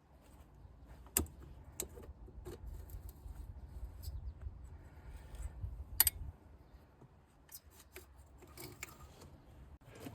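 Scattered metallic clicks and clinks of hand tools and small engine parts being handled while the air intake valve is unbolted from a Toyota 22RE engine. The sharpest clink comes about six seconds in, over a low rumble of handling noise.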